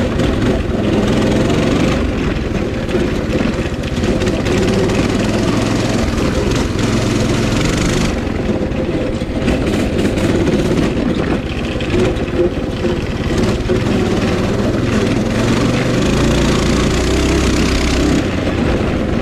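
Coleman 196cc mini bike's single-cylinder four-stroke engine running hard under a rider at full throttle, its pitch rising and falling a few times as the speed changes.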